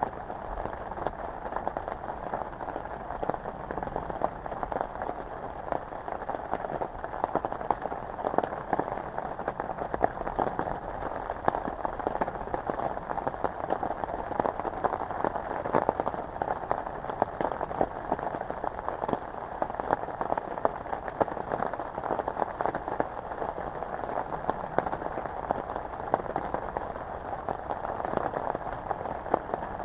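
Steady rain: a dense, even patter of drops hitting a surface.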